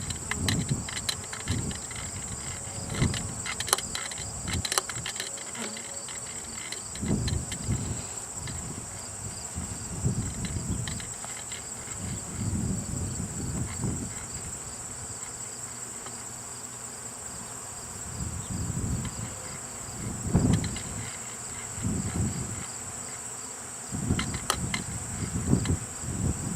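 A swarm of honeybees buzzing in the air around a hive box just after being shaken off a branch. Bees pass close every second or two, each rising and fading, over a steady high-pitched insect trill.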